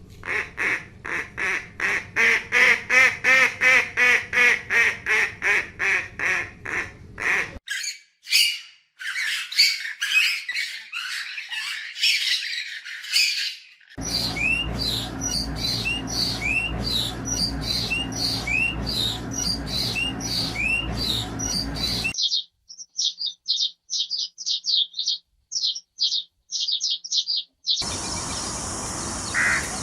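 A series of different bird recordings spliced together: first a fast run of repeated calls, about three a second, then harsher squawks, then repeated short rising chirps over a low steady hum, then a quick string of high chirps, each section starting and stopping abruptly.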